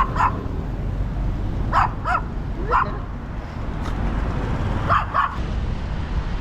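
A dog barking in short, high yelps, mostly in quick pairs, about four times, over the steady low rumble of a motorbike ride.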